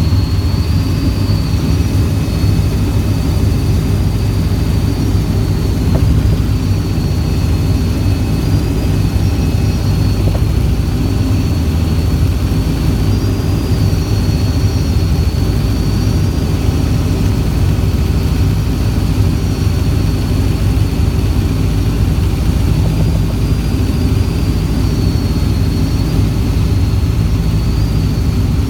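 Helicopter in flight: turbine engines and rotor running steadily, a loud constant drone with a high whine above it.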